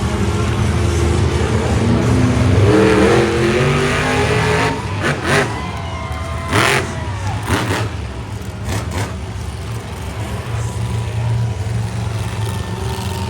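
Big monster truck engine running, revving up about two seconds in. Several sharp cracks come a few seconds later.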